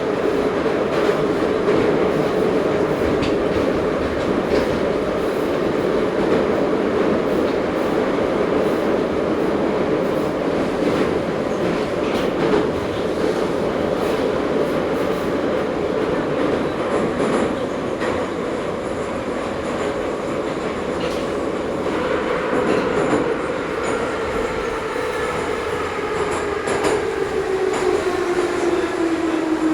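Ezh3 metro train running through a tunnel: a loud steady traction drive whine over dense wheel-and-rail rumble. In the last few seconds the whine falls in pitch as the train slows for the next station, with faint high wheel squeal.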